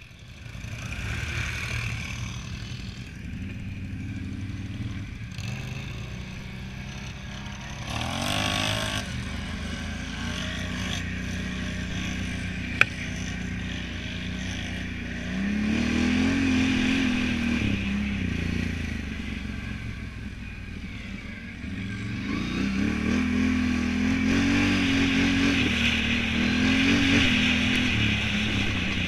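Can-Am Renegade 1000 ATV's V-twin engine running and revving, its pitch climbing and dropping twice as the throttle is worked, louder in the second half. A single sharp click sounds near the middle.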